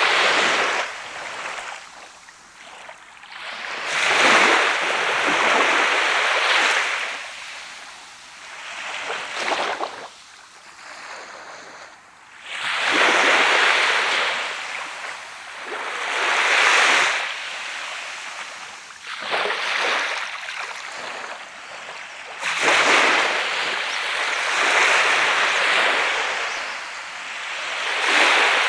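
Sea of Japan waves breaking on the beach and washing back, a new surge rising and falling every three to four seconds.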